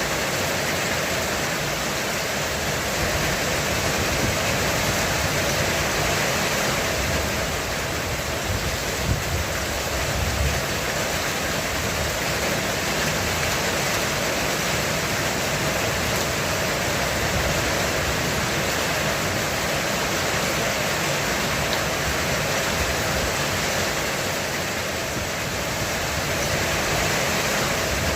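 Heavy rain on a roof: a steady, dense hiss of drops, with a low rumble swelling briefly about ten seconds in.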